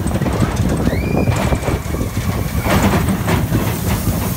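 Mine-train roller coaster cars rumbling and clattering along the track. About a second in, a high squeal rises and holds for almost two seconds.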